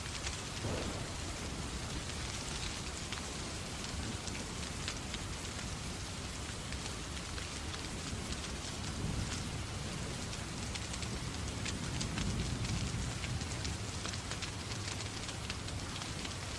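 Steady rain falling on a surface, with many small crackles and ticks from a fireplace fire through it. A low rumble swells about halfway through and again a few seconds later.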